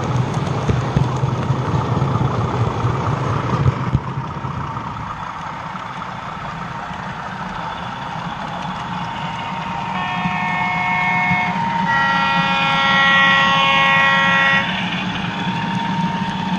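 OO gauge model train running on the layout's track, a steady rumble that eases about four seconds in. About ten seconds in, a sound-fitted model locomotive sounds its two-tone horn: a short note, then a longer, lower note lasting about two and a half seconds.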